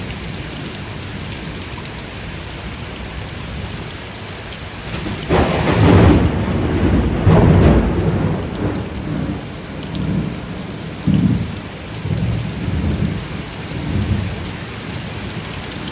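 Steady rain falling, with thunder breaking about five seconds in and rumbling on in several low swells for most of the rest.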